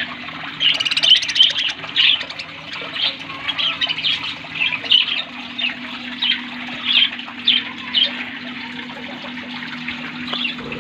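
A flock of budgerigars chirping and chattering in short, scattered calls, with a brief dense flurry about a second in, over a steady low hum.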